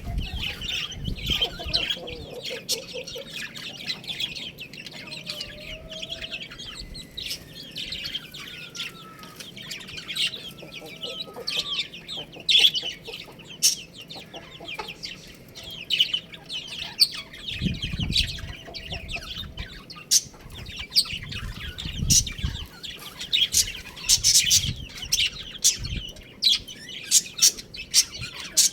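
Baby chicks cheeping continually, mixed with hens clucking. Sharp clicks run through it, and a few low thumps come in the second half.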